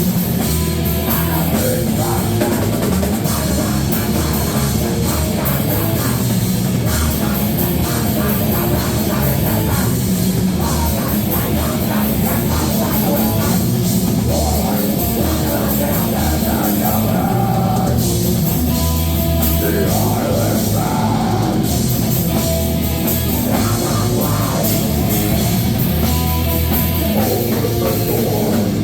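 A rock band playing loud and live: heavy, distorted rock with a drum kit pounding, continuous and dense.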